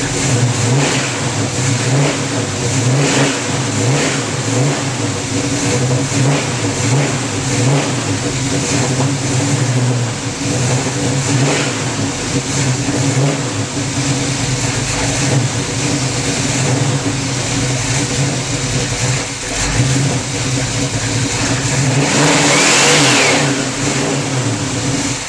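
1970 Plymouth Cuda's 340 V8, fed by a Quadrajet carburetor on pump gas, running steadily while it warms up after a cold start. It swells louder once, near the end.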